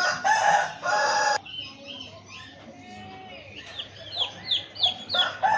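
Rooster crowing in two loud phrases at the start, with another crow beginning near the end. In between come quieter clucks and a quick run of about five high, falling chick peeps.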